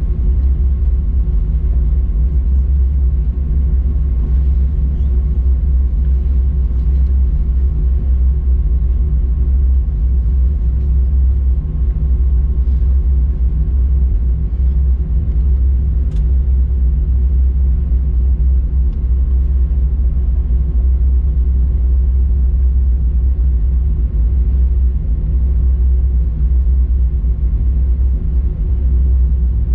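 Steady low rumble inside an Airbus A321-200's cabin while it taxis on engine idle after landing, with faint steady tones running through it.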